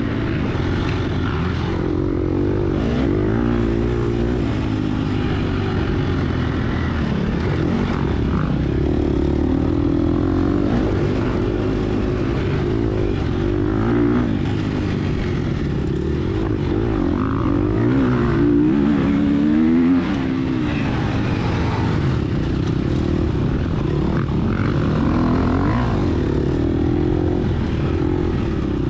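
Gas Gas EX250F single-cylinder four-stroke dirt bike engine under hard riding, its pitch rising and falling constantly with the throttle and gear changes. It climbs to its loudest near two-thirds of the way through, then drops off suddenly.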